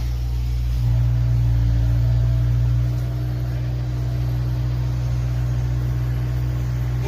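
A steady low motor rumble, like a vehicle running, that grows louder about a second in and eases back around three seconds.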